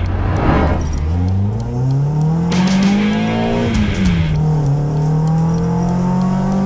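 Renault Clio 16v's four-cylinder 16-valve engine heard from inside the stripped cabin, revs climbing for about three seconds under acceleration, then falling sharply about four seconds in and holding steady.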